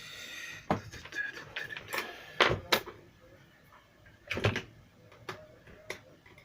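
Sharp plastic clicks and knocks of a JBL Charge 2+ speaker's case and grille being pried apart with a tool, with a brief scrape at the start.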